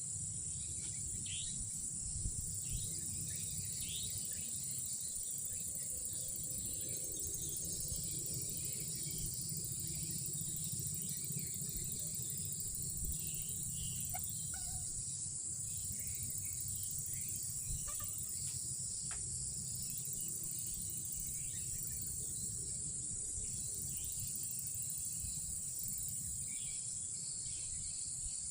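A night chorus of insects makes a steady, unbroken high-pitched trilling over a low rumble, with a few faint short calls scattered through it.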